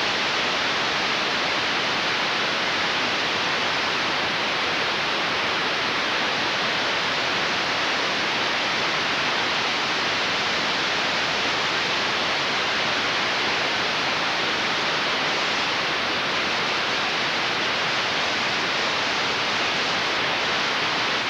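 Steady hiss of static-like noise, even and unchanging throughout, with no music or voice.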